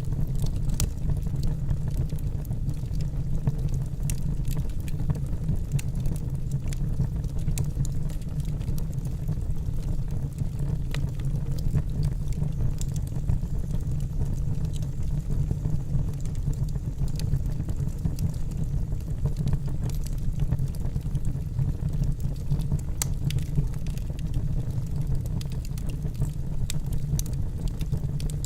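Wood logs burning in a fireplace: frequent irregular crackles and small pops over a steady low rumble of the fire.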